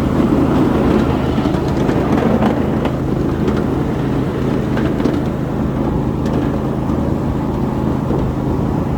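A 7.5-inch gauge ride-on train running along its track: a steady low drone and rumble, with a few scattered clicks from the wheels on the rails.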